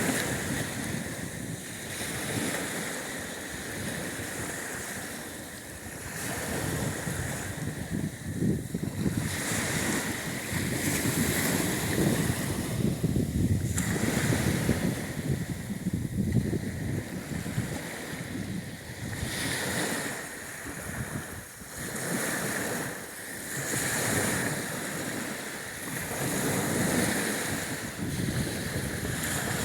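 Black Sea surf washing onto the shore, the noise of the waves swelling and falling back every few seconds, with wind on the microphone.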